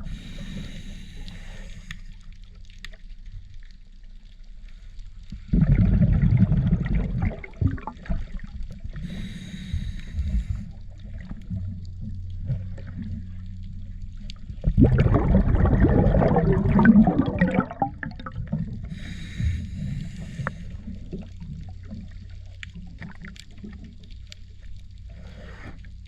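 Water gurgling and splashing over a steady low hum, with two louder surges of rushing water about six and fifteen seconds in.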